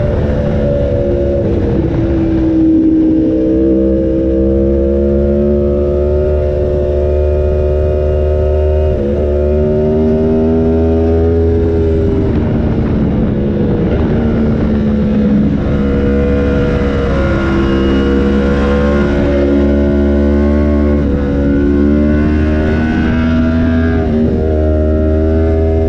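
Yamaha R1M's crossplane inline-four engine running through an SC Project exhaust, heard onboard at speed. The engine note climbs slowly under load and dips sharply a few times: a couple of seconds in, about nine seconds in and near the end.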